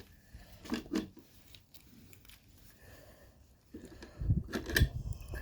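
Metal suspension parts being handled and fitted: a couple of light metallic clicks about a second in, then a run of low clunks and knocks near the end as the strut assembly is worked into alignment.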